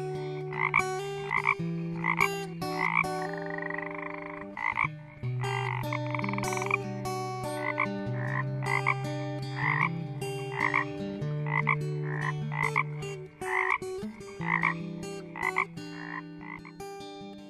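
Frog croaking over and over in short calls, about one or two a second, over low steady held tones that shift in pitch every second or two.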